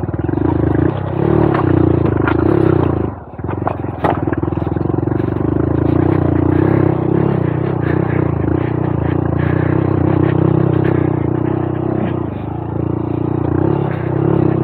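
Honda Monkey 125's single-cylinder engine pulling the bike up a rocky trail climb, with rocks clattering and scraping under the tyres. The engine drops off for a moment about three seconds in, then picks up again.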